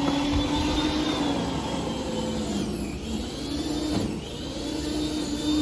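An engine running, its pitch rising and falling back several times as its speed or load changes.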